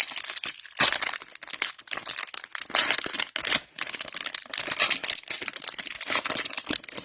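Plastic wrapper of a trading-card fat pack being torn open and crinkled by hand: a dense, irregular crackle.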